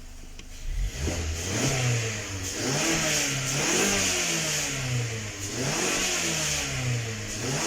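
2019 Mazda 6's direct-injection engine, running on freshly replaced fuel injectors, goes from idle to being revved again and again from about a second in, its pitch rising and falling several times. It runs smoothly, with only a slight misfire left on cylinder 1.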